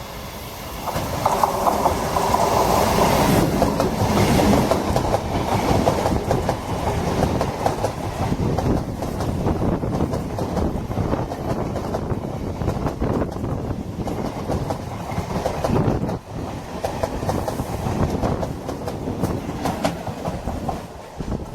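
A train passing close by, its wheels clattering over the rail joints. It gets loud about a second in and eases off a little near the end.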